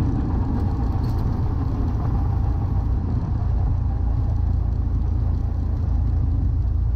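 Cessna 152's four-cylinder Lycoming engine and propeller running steadily, a constant low drone inside the cockpit.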